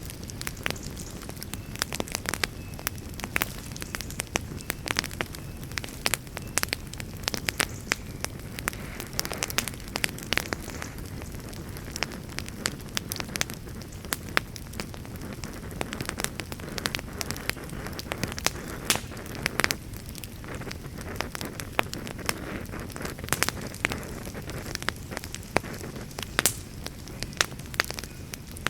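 Wood fire burning in a fireplace, a steady low rumble of flames with frequent sharp, irregular crackles and pops.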